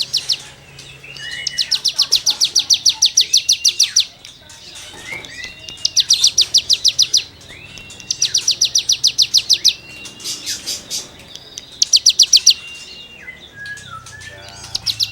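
A cigun songbird singing in rapid-fire 'nembak' bursts: fast, evenly repeated scratchy notes, about fifteen a second, each burst lasting one to three seconds. Short rising whistles come between the bursts.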